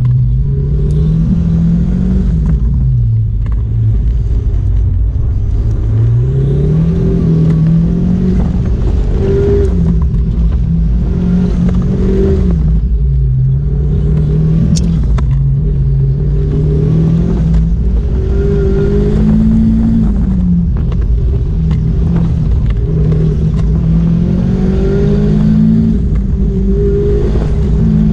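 2016 Mazda MX-5 Miata's four-cylinder engine heard from inside the open cockpit on an autocross run, its revs repeatedly climbing and dropping back every few seconds as the car accelerates and slows through the cone course.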